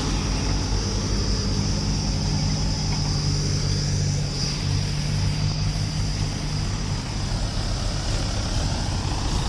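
Heavy diesel engine running steadily, a constant low-pitched drone.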